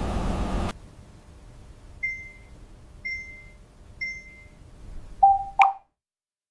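A steady mechanical noise cuts off abruptly, followed by three short, high electronic beeps about a second apart, then a lower beep that ends in a click.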